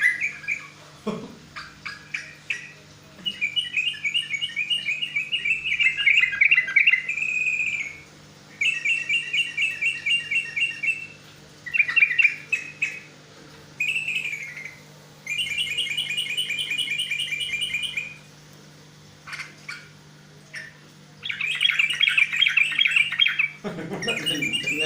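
Songbird singing in phrases of rapid trilled notes, each a few seconds long, broken by short pauses, over a faint steady low hum.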